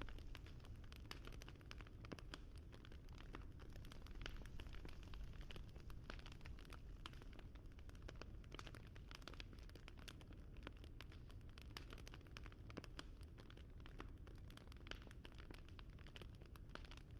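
Faint crackling fire: a steady low rumble with many small irregular pops and snaps.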